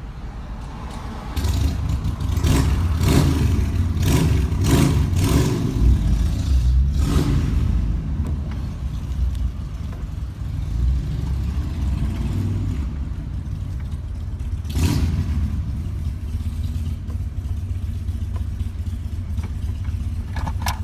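Vehicle driving along a road: a steady low rumble of engine and road noise, broken by irregular noisy bursts of clatter or wind buffeting, many in the first seven seconds and one more near the middle.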